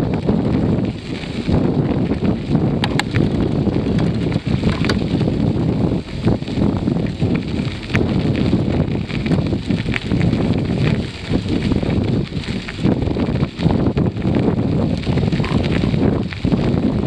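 Wind buffeting the microphone of a camera riding along on a moving bicycle: a loud, uneven rumbling noise, with scattered small clicks and rattles.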